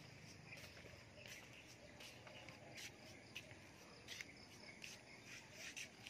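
Faint, scattered short chirps of small birds, irregular and several a second, over a faint steady high-pitched hiss.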